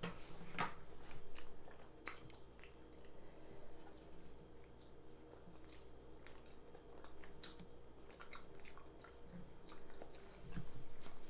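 A person chewing food close to the microphone, with wet mouth smacks and scattered sharp clicks.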